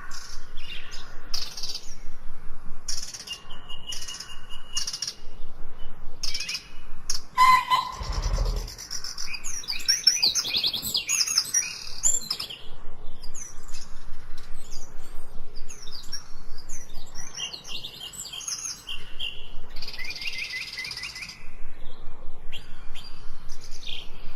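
Several songbirds chirping and singing, with rapid repeated calls and overlapping trills. A brief low thump comes about eight seconds in.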